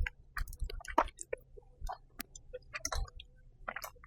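Close-up chewing and mouth sounds from eating: irregular soft clicks and wet smacks, a little louder about a second in and near three seconds.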